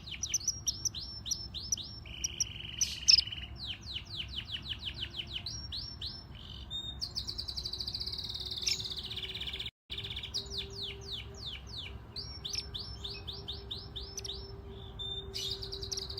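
Small songbirds chirping: quick runs of falling chirps and a few buzzy trills, with a faint steady hum underneath. The sound cuts out briefly about ten seconds in.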